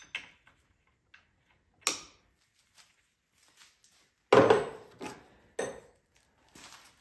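Tools or parts being handled in a workshop: a sharp knock about two seconds in, a louder clatter just after four seconds, and another knock near six seconds.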